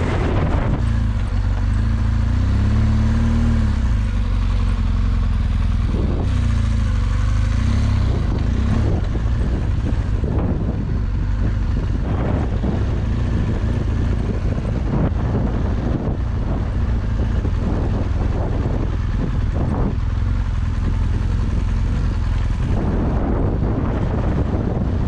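BMW R1200GS Adventure's boxer-twin engine running steadily at low revs as the bike rolls along a rough dirt road, its pitch rising and falling a little, with scattered knocks from the surface and some wind noise.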